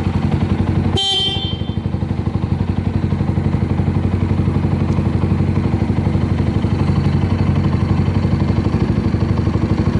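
Suzuki Grasstracker Big Boy's 250 cc single-cylinder engine idling steadily through an aftermarket Supertrapp 4-inch muffler, running evenly with no abnormal noises. About a second in, a brief horn beep sounds over it.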